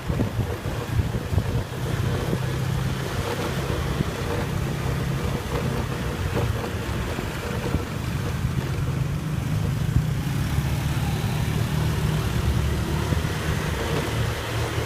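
Motorbike engine running steadily while riding, with a constant low hum and wind buffeting the microphone.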